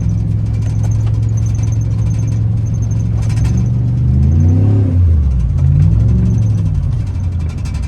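Truck engine running under load while driving, its pitch climbing about four seconds in and dropping back, then rising and falling once more. The 4L60E automatic transmission is not upshifting: it has no third or fourth gear.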